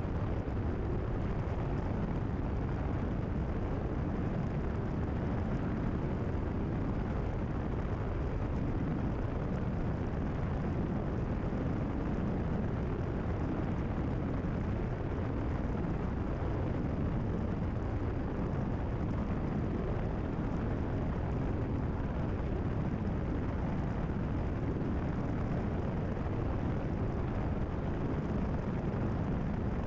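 Steady drone of a Cessna 172RG in level flight, its four-cylinder Lycoming engine and propeller running at constant power, heard from inside the cockpit. The sound holds even throughout.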